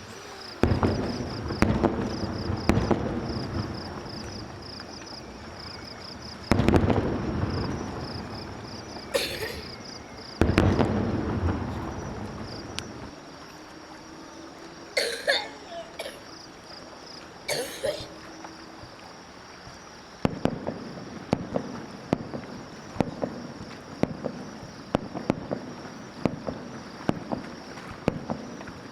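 Aerial fireworks bursting: several deep booms with long rolling echoes in the first ten seconds or so, then from about twenty seconds in a quick run of sharp crackling pops.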